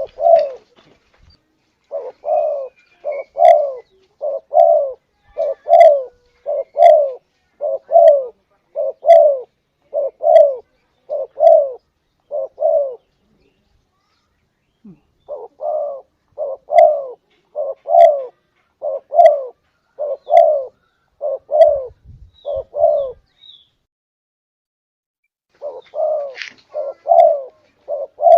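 Spotted dove (tekukur) cooing: low coos repeated about once a second in three long runs, with a pause of a couple of seconds between runs.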